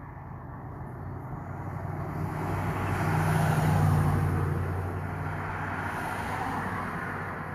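A motor vehicle drives past, its engine and tyre noise growing louder to a peak about halfway through and then fading away.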